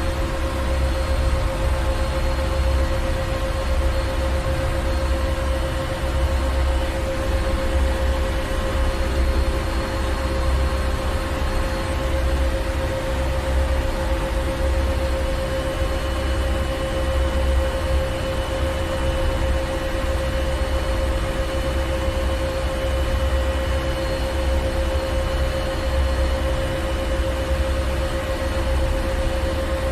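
Ship's engine room machinery running steadily: a deep pulsing rumble under a constant droning hum with a few steady whining tones.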